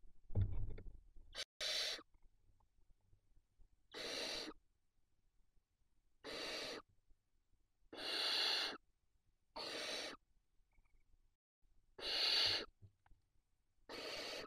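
Barn owl chicks giving drawn-out rasping hiss calls, the food-begging call of nestlings, about seven times, one roughly every two seconds. A brief low rustling thump comes near the start.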